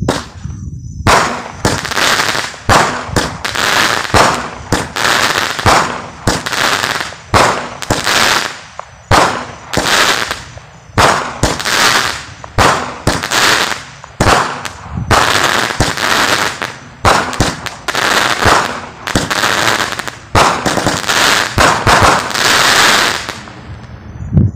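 A TNT Fireworks 'Cutlass' consumer cake fires shot after shot, roughly one a second for over twenty seconds. Each sharp launch is followed by a short noisy break overhead. The barrage stops shortly before the end.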